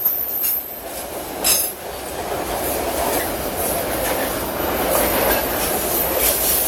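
Freight train wagons rolling past, steel wheels squealing against the rails, with a few clacks over rail joints.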